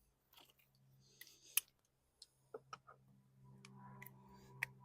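Faint, scattered clicks and light metallic taps from small tools and parts being handled, over a low steady hum.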